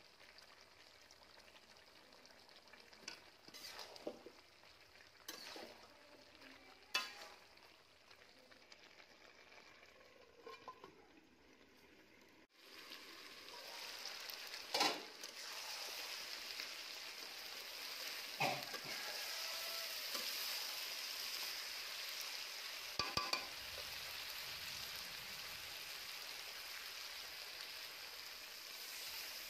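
Chicken pieces frying and sizzling in an oiled steel kadai, with a steel spatula now and then scraping and clinking against the pan as the pieces are stirred. The sizzle turns much louder about halfway through.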